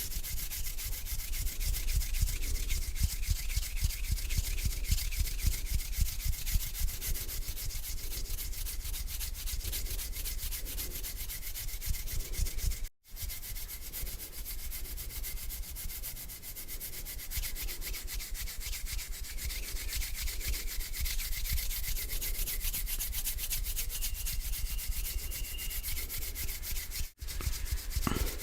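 Hands rubbing together slowly close to the microphone, a continuous dry rubbing broken by two very short gaps, one about halfway through and one near the end.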